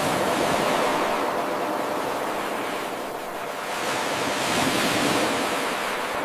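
Ocean waves washing onto a shore: a continuous wash of surf that eases about three seconds in and swells again near five seconds.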